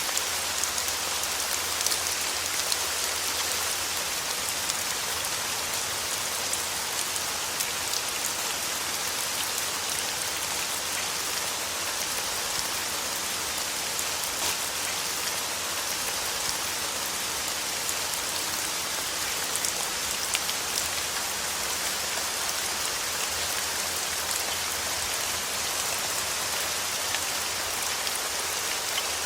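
Steady rain falling, a continuous hiss with many small drop ticks on a surface throughout.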